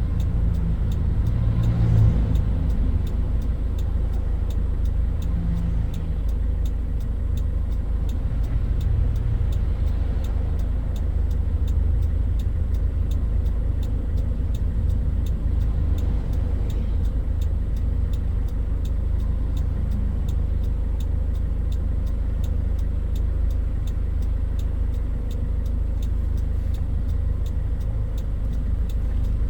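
Toyota Hilux Mighty-X pickup driving: a steady low engine and road rumble, with the engine note swelling briefly about two seconds in and easing again.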